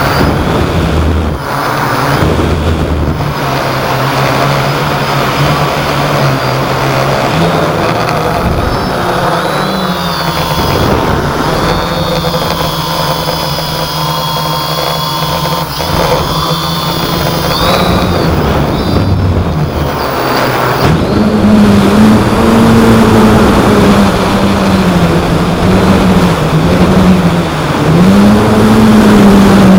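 Hexacopter motors and propellers buzzing in flight, the pitch wavering as the motors speed up and slow down against strong wind, rising and getting louder in the last third, over a noisy wind rush.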